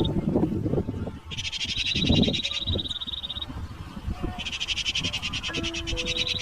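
Animal calls: a high, rapidly pulsing buzz comes in twice, each time for about two seconds, over shorter, lower calls.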